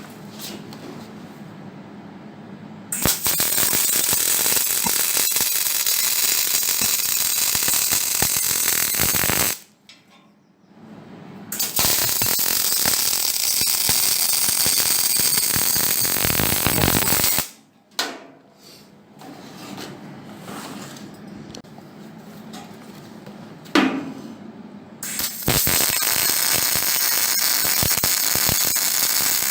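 A metalworking tool working sheet steel in three long bursts of several seconds each, with quieter clatter and a single sharp knock between them.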